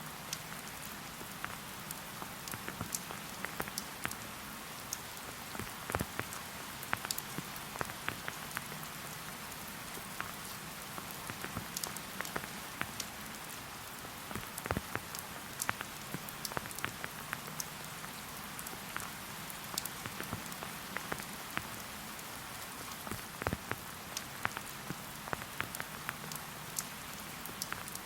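Steady rain falling: an even hiss with many separate drops striking close by.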